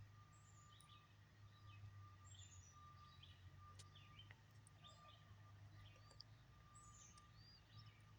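Faint songbird chirps and short calls, many quick notes scattered throughout, some sliding down in pitch and a few rising-and-falling notes near the end, over a steady low hum.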